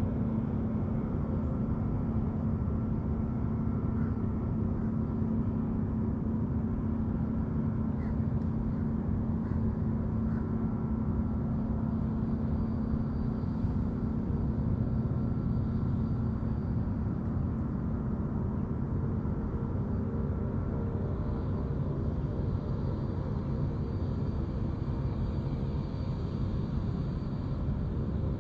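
Steady low engine drone. A second, higher droning tone with several pitches comes in during the second half and grows toward the end.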